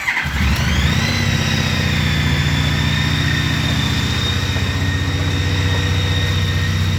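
2014 Honda CTX1300's V4 engine on a cold start: it catches in the first half second, its pitch rises as it comes up to speed, and it settles into a steady idle about a second in.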